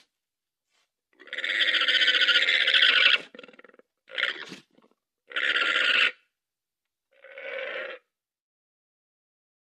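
Llama calling: four calls, the first long one starting about a second in and lasting about two seconds, then three shorter ones, the last fainter.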